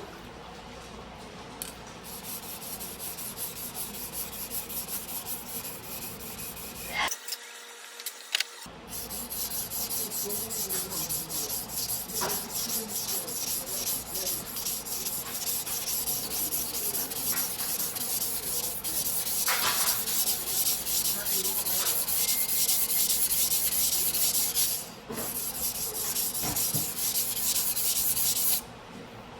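A steel knife blade stroked back and forth on a whetstone, making rapid, even rubbing strokes. The strokes are quieter for the first several seconds and break off briefly, then run louder and stop near the end.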